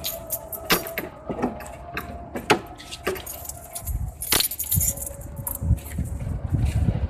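Rain: scattered sharp taps and drips of drops striking hard surfaces at irregular intervals, with low gusts of wind rumbling on the microphone from about four seconds in.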